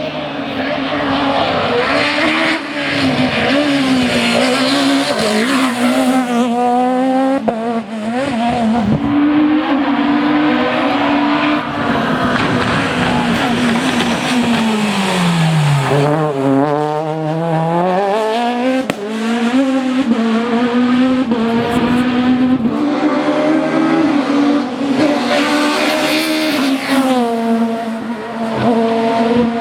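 Citroën Xsara rally car's two-litre four-cylinder engine at full stage pace, revving high and rising and falling through gear changes. About halfway through the revs fall steeply as it slows for a corner, then climb again.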